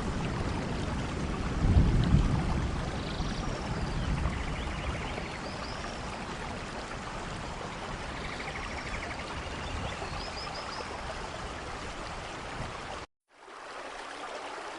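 Steady rain with a low rumble of thunder about two seconds in that slowly dies away, and a few short high chirps over the rain. The sound cuts out completely for a moment near the end, then the rain comes back a little softer.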